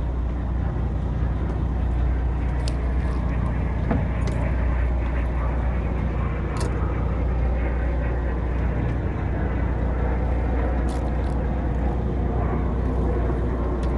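Boat engine running steadily, a low drone, with a few short clicks over it.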